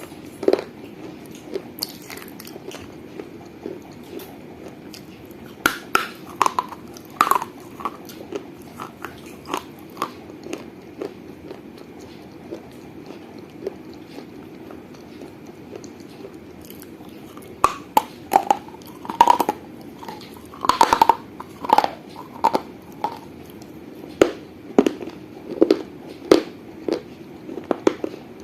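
A person biting and chewing pieces of a small fired-clay piggy bank (gullak), giving sharp crunches in clusters. The crunches thin out in the middle and come thick and fast over the last ten seconds.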